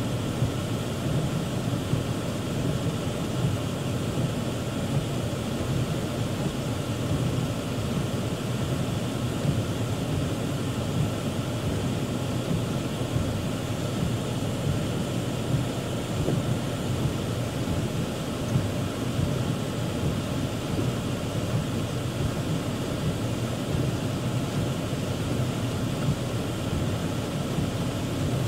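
Heavy rain falling steadily: a dense, even rush of noise, deepest and strongest in the low range, with no letup.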